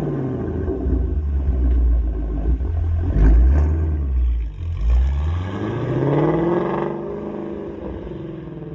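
Ford Mustang Shelby GT350's 5.2-litre flat-plane-crank V8 through a non-resonated exhaust, being revved while parked. Revs fall away at first under a deep rumble, with a sharp blip about three seconds in. A second rev climbs and peaks about six seconds in, then drops back toward idle.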